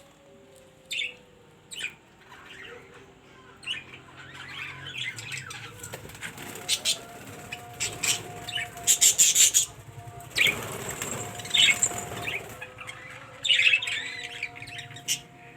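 A colony of small Australian parrots chirping and chattering, with wings flapping; the calls come in bursts and are busiest and loudest through the middle.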